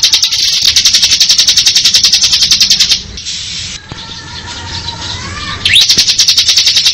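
Bar-winged prinia (ciblek) singing its ngebren trill: a loud, very fast string of high notes, about fourteen a second. The trill breaks off about three seconds in, a faint lower whistle glides in the pause, and the trill starts again near the end.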